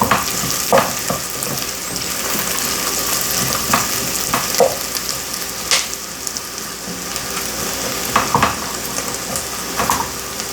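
Uncooked rice toasting in oil and butter in a pot, with a steady sizzle and a few light clicks and scrapes of stirring.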